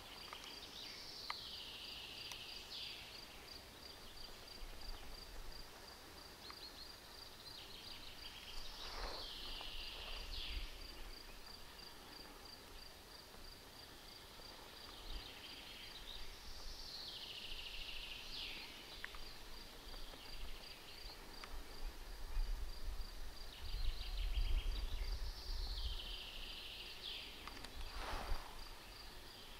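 A songbird repeats a short falling song phrase about every eight seconds, four times, over a steady high, evenly pulsed ticking, with a low wind rumble underneath.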